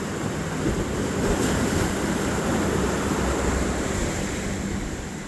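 Wind noise on the microphone and water in the inlet, with the low steady drone of a passing boat's engine underneath, a little louder in the middle.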